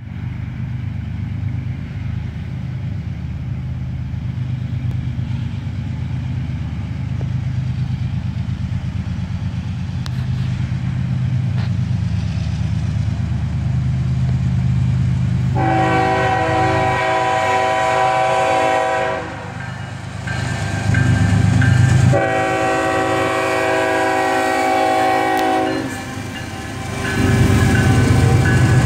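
CSX freight train approaching: the diesel locomotives' engines rumble and grow louder, and the locomotive horn sounds two long blasts about halfway through. Near the end the lead locomotives pass close, with louder engine and wheel noise on the rails.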